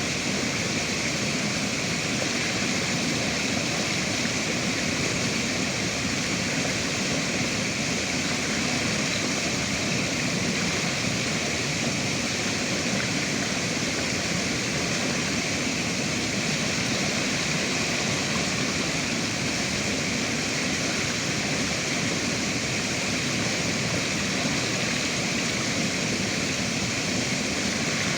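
River water flowing, a steady, even rush of water with no breaks or changes.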